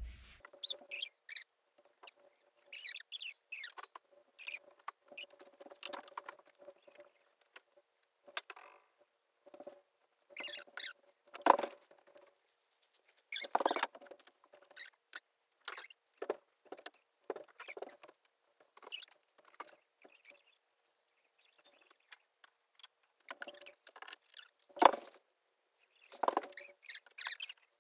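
Hands setting flowers on the puja vessels: irregular light rustles, scrapes and soft knocks, the sharpest twice (about midway and near the end), over a faint steady hum.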